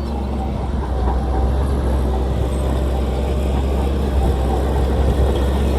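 Heavy diesel engine of earthmoving machinery running steadily, a deep continuous rumble.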